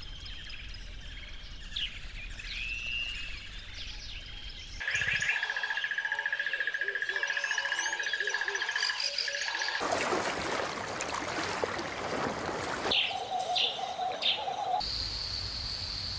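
Birds chirping and calling, in short segments that change abruptly. A steady high trill runs through the middle, and about ten seconds in there are a few seconds of even rushing noise.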